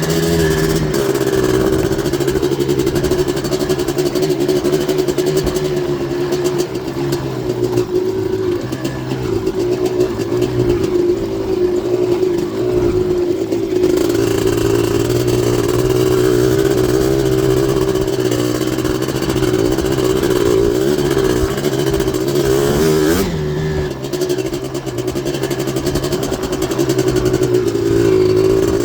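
Yamaha Blaster's 240cc big-bore two-stroke single-cylinder engine, breathing through an FMF exhaust with an arc silencer, running hard while riding. The engine note holds fairly steady, with a brief change in pitch about halfway through and a short dip in throttle near the end.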